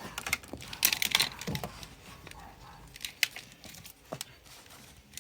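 Clicks, knocks and rustling of household things being moved and handled, with a louder rustle about a second in.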